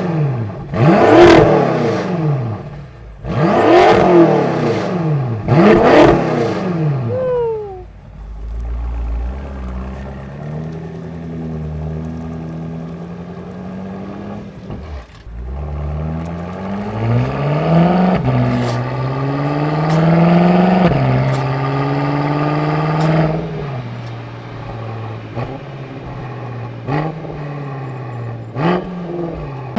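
BMW M6 Competition's S63TU twin-turbo V8 through a titanium Akrapovic M Performance exhaust (stock catted downpipes): four sharp throttle blips in quick succession, then idle. Later the revs climb more slowly with a couple of drops in pitch, and it settles back to idle with a couple of short pops near the end.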